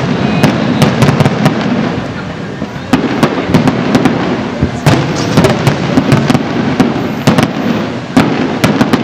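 Aerial fireworks bursting in quick succession: many sharp bangs and cracks a second, their booms running together into a continuous rumble, easing off briefly a couple of seconds in before picking up again.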